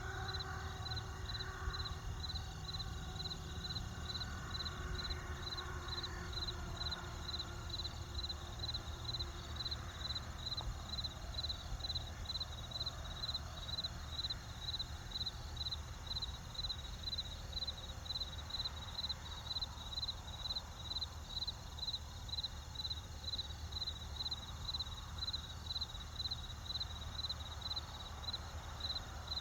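Cricket chirping steadily, a high, evenly spaced chirp about twice a second, over a low steady rumble. A few faint sustained tones fade away in the first several seconds.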